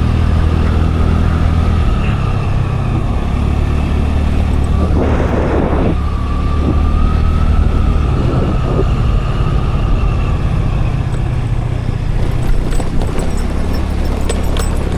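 Motor scooter on the move: engine running steadily under wind and road rumble, with a faint whine held throughout and a short hiss about five seconds in.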